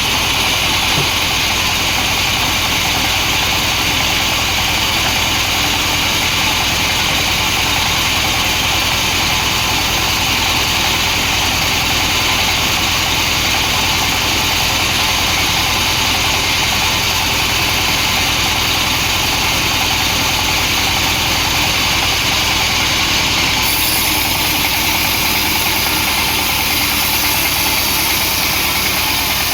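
Engine-driven sawmill saw running steadily without a break, a constant engine pulse under a bright band of noise; the sound's top end changes slightly near the end.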